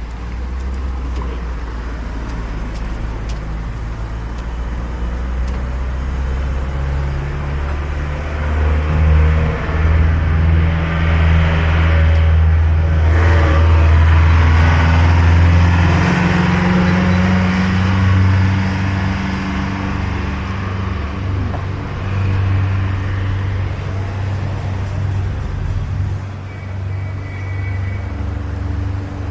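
Motor vehicle engine running with a steady low hum that shifts pitch in steps. Road rush grows louder through the middle.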